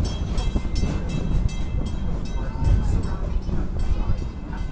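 Amusement-park railway passenger car running along the track, with a steady low rumble and rattle from the wheels, and short high metallic squeals during the first second or so.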